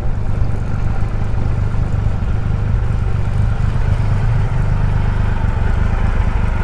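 Triumph Rocket 3 GT's three-cylinder engine running steadily at low revs, a loud, even low rumble.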